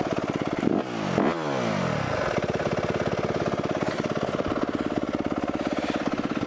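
Four-stroke single-cylinder dirt bike engine revved up and back down about a second in, then settling to a steady, even idle.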